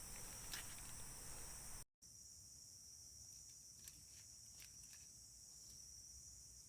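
Steady high-pitched drone of insects in a quiet plantation, with a few faint ticks; it drops out completely for a moment about two seconds in.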